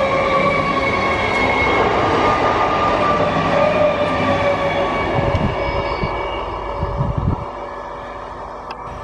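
Electric multiple unit (EMU) suburban train running past close by at speed: a loud rumble of wheels on the rails with a steady whine. About seven seconds in, the sound drops to a much quieter, distant train.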